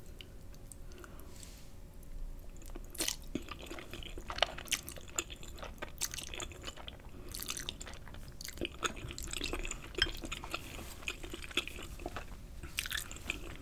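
Chewing and slurping of fettuccine noodles in thick Alfredo sauce, with wet mouth clicks and smacks from about three seconds in.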